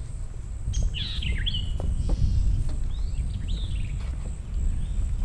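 Birds chirping and calling in short, swooping and falling notes, the busiest cluster about a second in and more near the middle, over a constant low rumble of outdoor noise.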